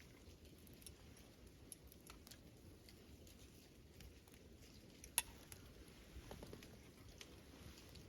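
Faint, sporadic crackling and ticking of a wood fire, with one sharper pop about five seconds in, over a low steady background hum.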